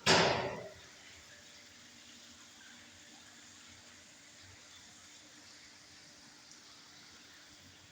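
A sudden loud burst of hissing noise that dies away within about a second, followed by a faint steady hiss.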